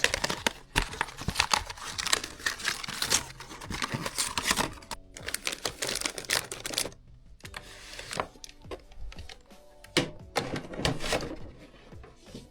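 Plastic packets of cat snacks and food being handled and packed away: a busy run of clicks, taps and rustling. It is heaviest for the first five seconds, eases off, then comes back in a short flurry about ten seconds in.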